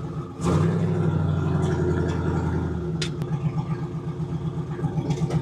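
A car engine idling with a fast, uneven pulsing note. A deeper hum under it drops away about three seconds in.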